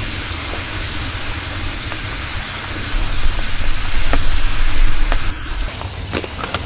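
Campfire of rain-dampened wood burning with a steady hiss and a few sharp crackles. From about three seconds in, a loud low rumble rises over it for about two seconds.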